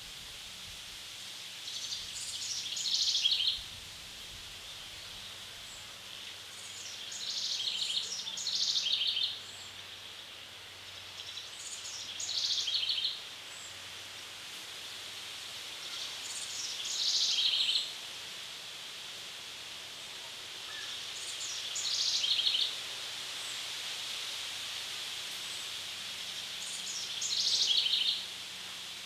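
A songbird sings the same high phrase six times, about every five seconds. Each phrase lasts a second or two, grows louder and ends suddenly in a quick trill, over a steady high woodland hiss.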